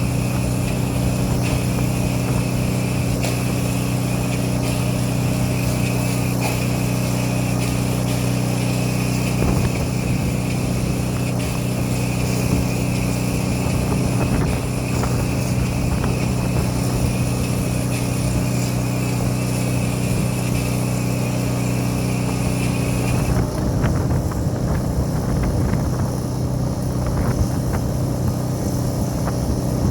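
Pressure washer engine running steadily at a constant speed, with a higher steady hiss over it that drops out about three quarters of the way through, while the engine keeps running.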